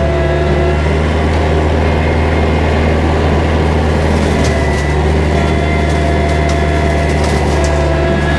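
Kubota tractor's diesel engine running steadily at constant speed, with a few short clicks and snaps over it.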